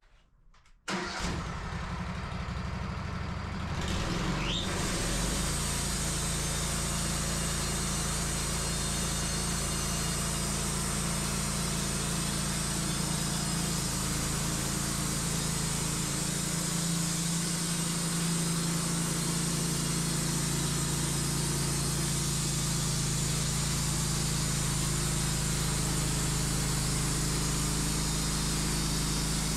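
Wood-Mizer LT15 sawmill's gas engine starting about a second in, throttling up a few seconds later, then running steadily as the band saw takes a cut through the log.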